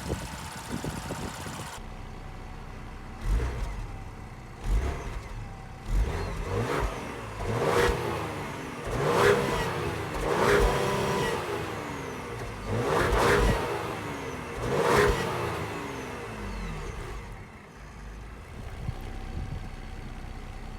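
2020 Ford Explorer ST's 3.0-litre turbocharged V6 idling, then revved again and again through its exhaust. Each rev climbs and falls back to idle, the biggest ones in the middle, before it settles to a steady idle near the end.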